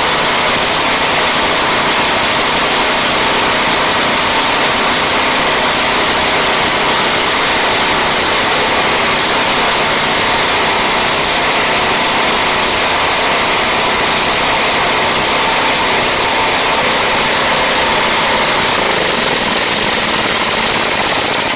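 Husqvarna ST224 snowblower's single-cylinder engine running steadily at speed on a replacement carburetor. The owner judges it a lot better, though still surging at top end.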